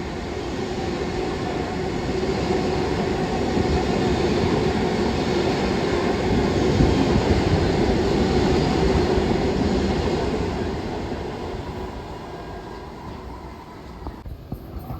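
Long Island Rail Road train passing through: the rumble and wheel noise swell to their loudest about seven seconds in, then fade away.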